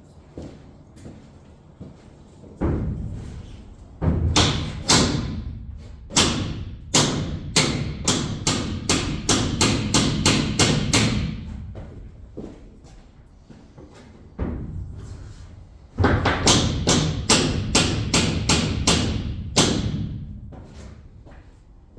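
Hammer blows on a metal roof bracket inside a box truck, knocking the bracket into place. There are a few single blows, then two fast runs of about three strikes a second, each strike ringing briefly.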